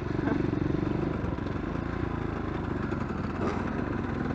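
Dirt bike engine running steadily, a little louder for about the first second.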